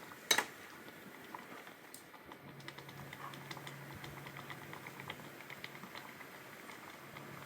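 A single sharp knock just after the start, then faint, irregular crackling ticks over a steady low hum.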